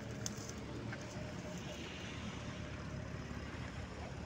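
A motor vehicle's engine running steadily, with outdoor road noise.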